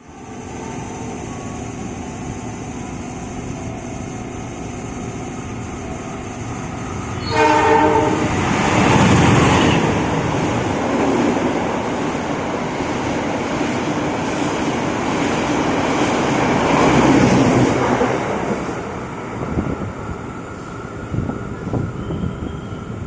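A train sounds a short horn blast about seven seconds in, then passes close by with a loud rumble of wheels on rails that eases off, with scattered clicks from the wheels over the rails near the end.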